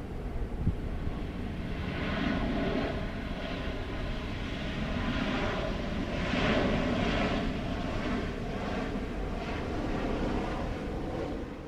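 Airliner engines running, a steady noise with a low rumble.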